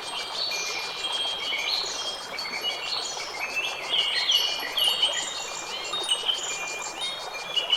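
Nature sound recording: a dense run of high ringing and chirping notes, many of them sliding downward, over a steady soft hiss.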